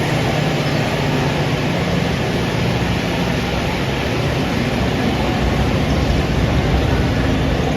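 A train running, a steady, unbroken noise with a low hum underneath.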